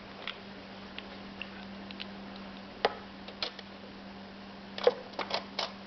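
Light clicks and taps of small plastic toy dishes and pieces being handled: a few scattered ones, then a quick cluster near the end, over a faint steady hum.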